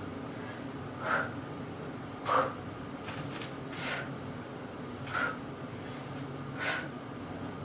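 A person breathing hard during exercise: a short, sharp exhale about every second and a half.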